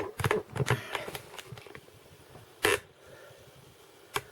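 A handful of short handling clicks and knocks in the first second, then a single sharp click a little before the three-second mark and another near the end.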